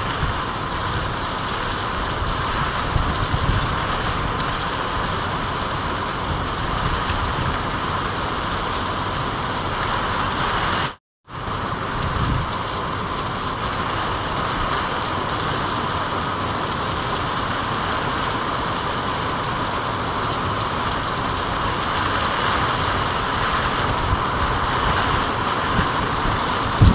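Steady, even rain. It cuts out completely for a fraction of a second about eleven seconds in, then resumes.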